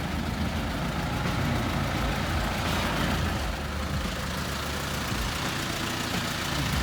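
Tow truck's engine running steadily at low revs, a low, even rumble.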